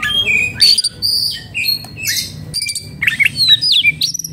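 Oriental magpie-robin (kacer) singing a fast, varied run of clear whistles, slurred sweeps, chirps and short rasping notes. This is the excited song of a bird worked up into breeding and fighting mood.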